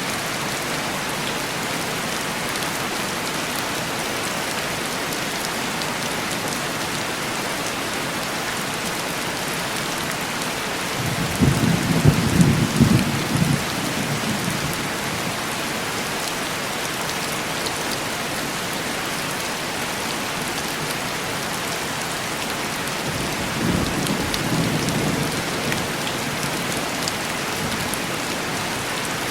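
Heavy rain pattering steadily on a window glass, with two rolls of distant thunder: a louder rumble about eleven seconds in and a softer one about twenty-four seconds in.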